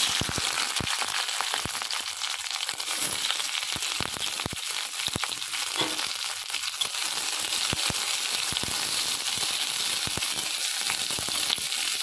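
Green bell pepper pieces frying in hot oil in an aluminium kadai. A dense sizzle, thick with crackles and spits, starts abruptly as they go in and carries on steadily.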